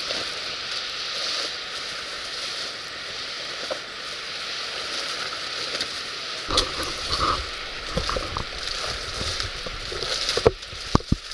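Firewood burning in a fire pit: a steady hiss with scattered crackling that grows about two-thirds of the way in, then several sharp pops near the end.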